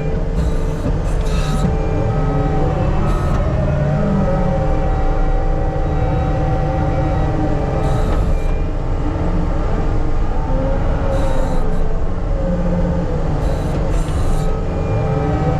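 Diesel engine of heavy earthmoving equipment running steadily under load, with a hydraulic whine that rises and falls as the machine works and a few short hissing bursts every few seconds.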